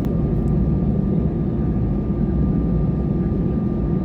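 Airbus A320 engine and airflow noise heard inside the cabin: a steady low rumble with a thin, steady high tone above it.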